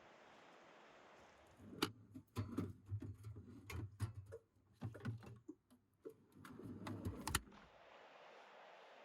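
A run of sharp clicks and knocks over a low rumble, starting about a second and a half in and stopping after about six seconds.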